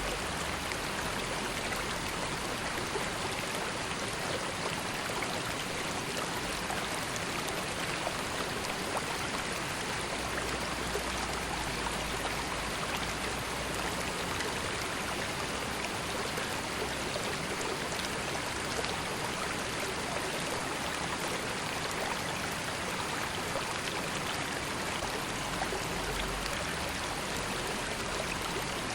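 River water flowing and babbling steadily, an even rush of moving water.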